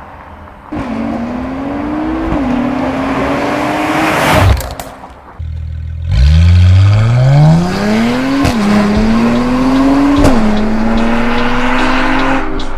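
Mercedes-AMG E43's twin-turbo M276 V6 accelerating hard through a Stone turbo-back exhaust with catalytic downpipe and valved catback. The engine note climbs in pitch and drops back at each upshift. There are two pulls, split by a brief break about five seconds in, and the second starts from low revs.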